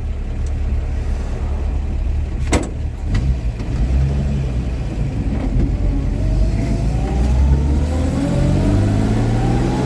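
1949 Chevy truck's engine running on the road, heard from inside the cab as a steady low rumble, its pitch climbing from about six seconds in as it accelerates. A single click about two and a half seconds in.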